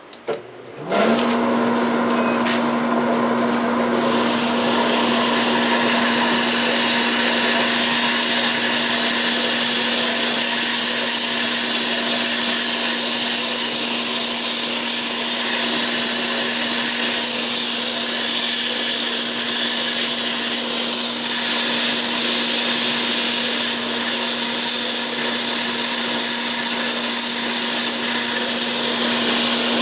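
A wood lathe starts up about a second in and settles to a steady motor hum. From about four seconds in, the steady hiss of 60-grit sandpaper held against the spinning walnut handle joins it.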